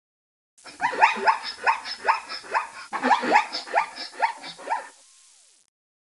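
A dog barking, a quick run of about a dozen short barks, each falling in pitch.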